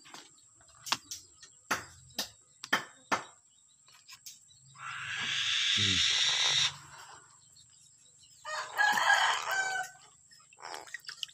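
A few sharp clicks, then two long, harsh bird calls: the first lasts about two seconds, the second about a second and a half.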